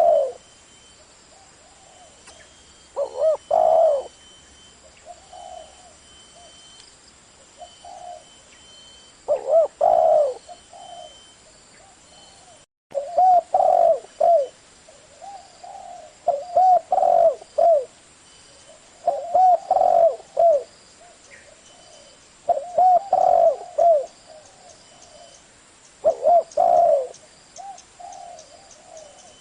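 Spotted dove cooing: repeated short phrases of low coos, spaced a few seconds apart and coming closer together in the second half. A brief dead gap about 13 seconds in.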